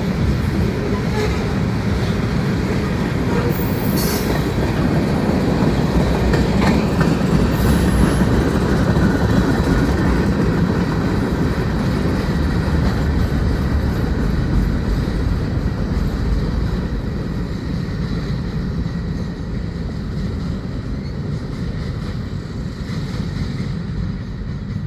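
Freight train cars of a manifest rolling past: a steady rumble of steel wheels on rail, with brief high-pitched wheel squeals about four and seven seconds in, easing off somewhat in the second half.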